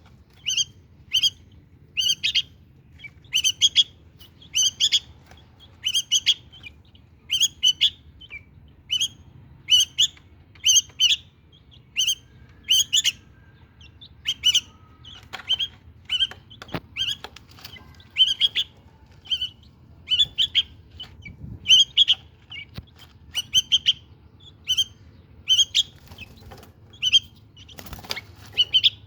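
Bulbuls calling with short, sharp chirps repeated about once or twice a second, often in quick pairs.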